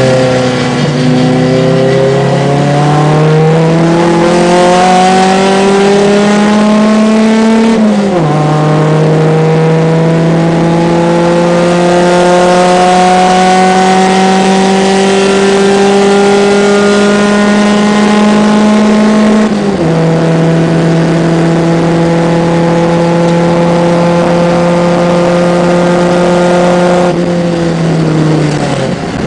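1975 BMW 2002 race car's four-cylinder engine, heard onboard at full throttle. It climbs in pitch through the gears, with sharp drops at upshifts about eight seconds in and again near twenty seconds. It holds high revs, then falls away near the end as the driver lifts off.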